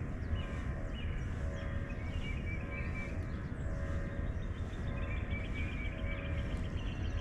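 Outdoor ambience: a steady low rumble, with short bird calls repeating every second or two over it.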